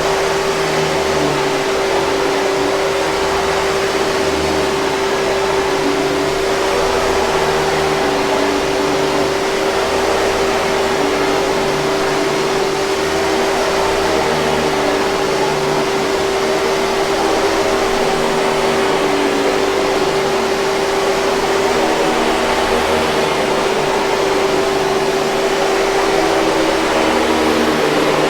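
Hoover 5000 Series canister vacuum cleaner running steadily: a constant rush of air with a steady mid-pitched whine over it.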